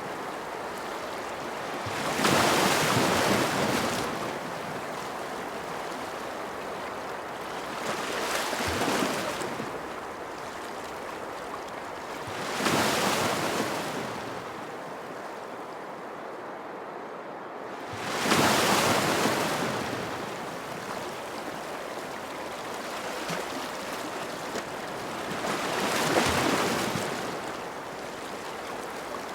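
Ocean waves breaking on a shore: a steady wash of surf with five louder surges that build and fall away, spaced four to eight seconds apart.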